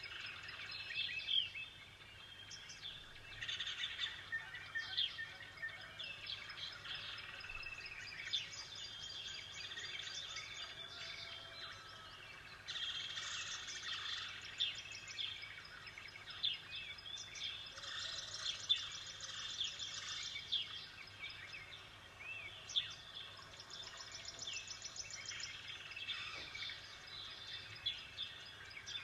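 Small birds chirping and calling: many short, high calls and rapid trills overlapping one another.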